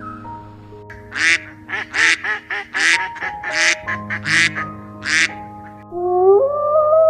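An animal calling in a quick run of about eight short, harsh calls, over soft background music. Near the end a loud, wavering, gliding tone comes in.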